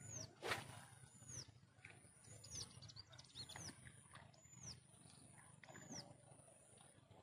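A bird calling over and over: a short high whistle that rises and falls, about once a second. A single sharp click comes about half a second in, over a faint low rumble.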